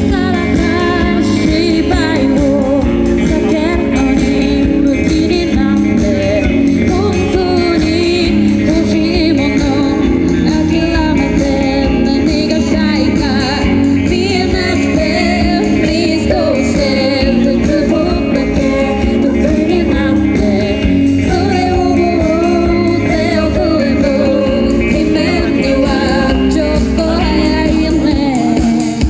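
Rock trio playing live: a woman sings the lead melody over electric guitar, bass and drums, steady and loud throughout.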